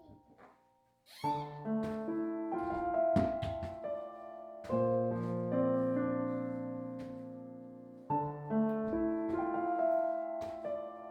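Soft background piano music: chords that ring and slowly fade, changing every few seconds, after a brief near-quiet moment at the start.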